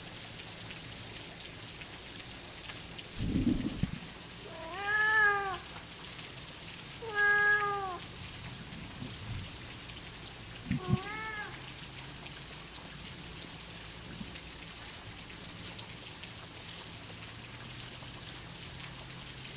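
Steady rain on a surface, with a short low rumble of thunder about three seconds in. A domestic cat meows three times over the next several seconds; each meow rises and then falls in pitch.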